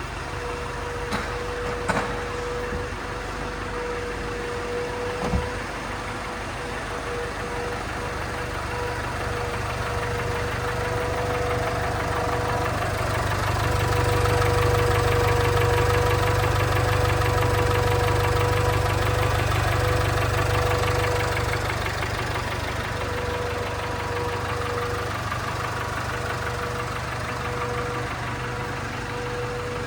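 A 2018 Jaguar XE's 2.0-litre turbocharged four-cylinder engine running, with a steady whine over the engine note; it runs louder for several seconds in the middle, then settles back.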